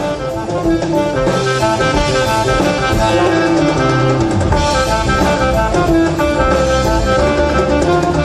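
Instrumental passage of a song: a band with drum kit, guitar and horns plays between sung lines.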